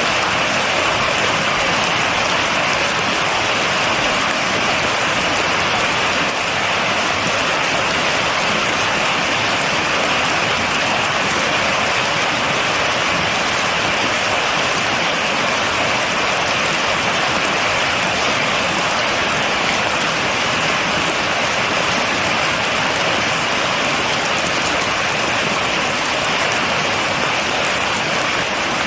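Steady heavy rain, a dense even hiss of drops with fine pattering ticks, without thunder.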